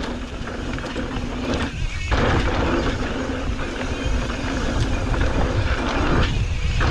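Steady rumbling noise of a mountain bike on a dirt trail: wind buffeting the camera microphone and tyres on dirt. It dips briefly twice, about two seconds in and again near the end.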